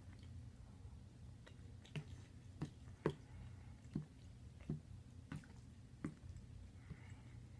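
Close-up mouth chewing of soft, cheesy taco pasta bake: wet smacks at a steady pace, about one every two-thirds of a second, over a low steady hum.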